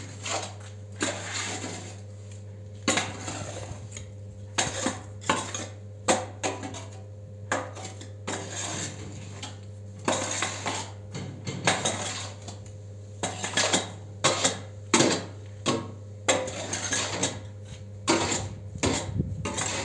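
Excess concrete block mix being scraped and knocked off the top of a cinder block machine's steel mould: a string of irregular metal scrapes and clanks over a steady low hum.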